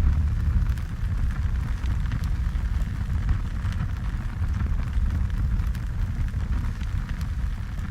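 Harley-Davidson Sportster 1200 V-twin running steadily at cruising speed, a low rumble under a rushing noise of wind and tyres.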